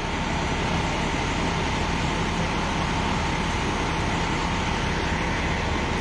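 Steady low rumble of an idling vehicle engine, with no sudden changes.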